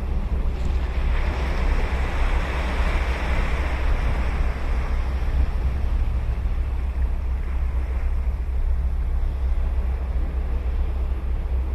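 Ocean surf on a beach: a breaking wave's hiss swells about a second in and fades away after about five seconds, over a steady low rumble of wind on the microphone.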